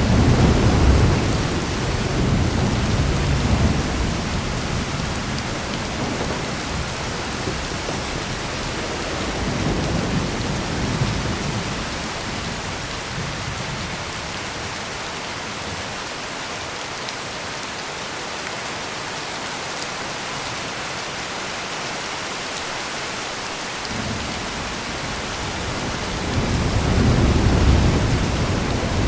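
Heavy steady rain with thunder: a low rumble at the start, a weaker one about ten seconds in, and another building near the end.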